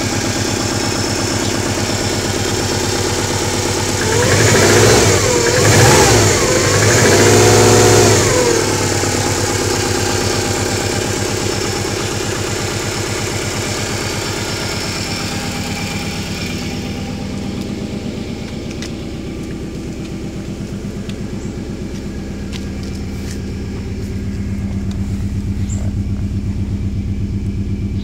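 Subaru Legacy GT-B's twin-turbo boxer four-cylinder engine running cold at idle. It is revved up and let fall back about twice, some four to eight seconds in, then settles to a steady idle. It is cold enough to have piston slap, which the owner says goes away once the engine warms up.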